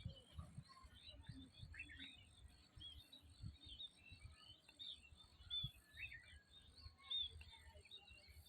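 Faint, scattered short bird chirps, with irregular low thuds underneath.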